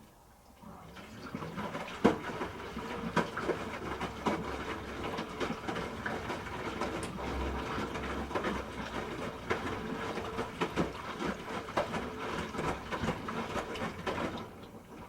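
Hoover H-Wash 300 Plus front-loading washing machine drum turning wet laundry during the rinse, with water sloshing and clothes knocking as they drop, over a low motor hum. It starts about a second in and stops near the end, one tumble between pauses.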